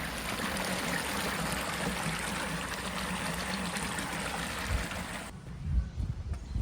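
A steady rushing hiss, like running water, that cuts off abruptly about five seconds in. A few low thumps follow near the end.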